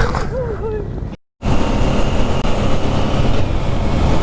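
Motorcycle engine running under way with wind rushing over the microphone; the sound cuts out completely for a moment about a second in, then the steady engine and wind noise carries on.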